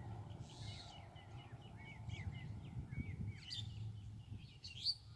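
Birds chirping in quick, repeated short calls, with one louder, sharper call near the end, over a low steady rumble.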